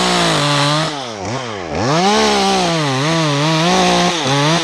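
Two-stroke chainsaw cutting through a pine trunk, the engine speed sagging under load and climbing again several times. This is the cut that frees a large piece on an open-face notch.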